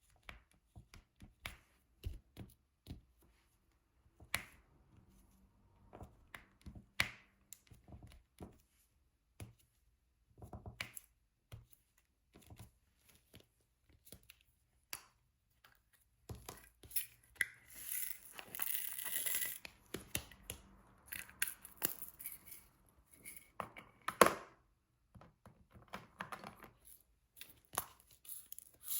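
Diamond painting at close range: irregular small clicks and taps of a drill pen picking up resin drills and pressing them onto the adhesive canvas. A few seconds of rustling and crinkling come just past the middle, with a sharper tap near the end.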